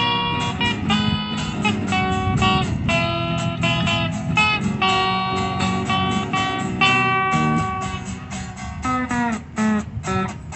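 Live band with guitars playing an instrumental break of a rock song. Near the end the band plays a few short, separate chords.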